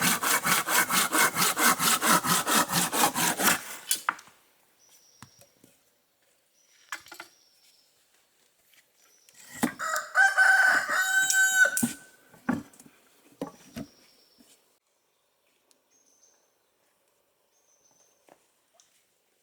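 Hand saw cutting wood in quick, even strokes, about five a second, stopping about four seconds in. Later a rooster crows once, a call of about two seconds, with faint short high chirps of birds around it.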